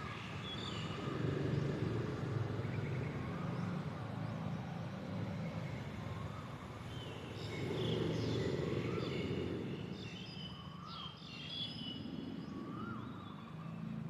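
Several birds calling over a steady low city-traffic rumble: one repeats a short rising-and-falling note about every two seconds, and other birds add bursts of higher chirps around the middle.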